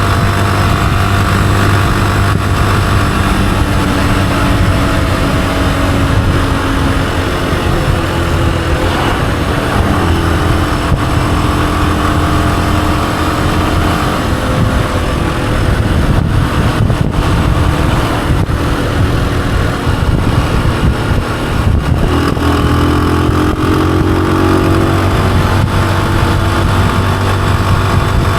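Honda CG125's single-cylinder four-stroke engine running steadily while the motorcycle is ridden, its pitch shifting with the throttle and climbing about three-quarters of the way through as it speeds up.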